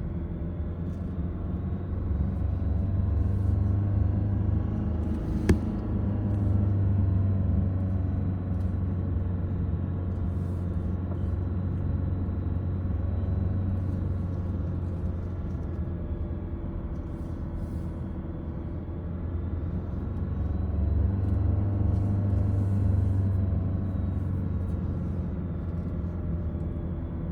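Car interior noise while driving down a winding mountain road: steady engine and road rumble, the engine note rising and falling a couple of times, with one sharp click about five seconds in.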